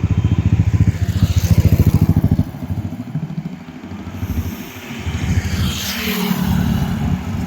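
Highway traffic: a motor vehicle engine running close by with a rapid low pulsing, and vehicles rushing past, about a second in and again around six seconds.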